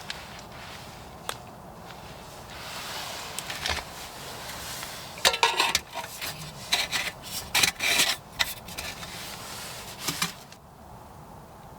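Rubbing and scraping handling noises, then a run of sharp crinkling and rustling strokes through the middle that stops abruptly near the end.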